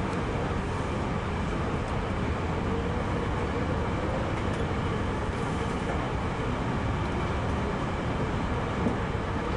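Electric commuter train running along the line, heard from the front car: a steady rumble of wheels on rails with a faint steady whine. One light knock comes near the end.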